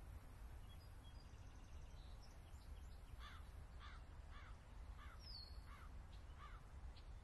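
A bird calling faintly: a quick series of about six short repeated calls, each a little over half a second apart, starting about three seconds in, over a low steady hum.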